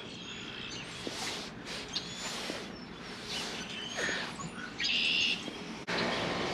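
Wild birds chirping outdoors: scattered short high calls and quick rising chirps over a soft steady background.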